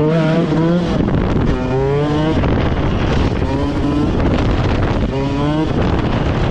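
Pit bike engine revving in four short held bursts, roughly one every second and a half, with wind noise on the microphone.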